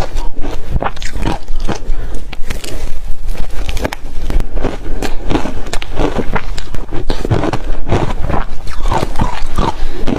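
Close-miked chewing of shaved refrigerator ice, a loud, irregular run of crunches several times a second.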